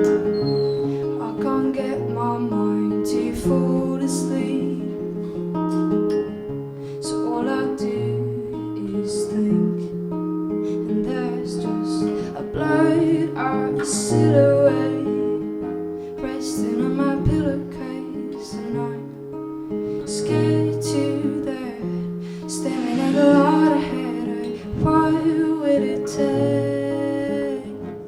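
Acoustic guitar played live, strummed chords with sustained notes and no vocals.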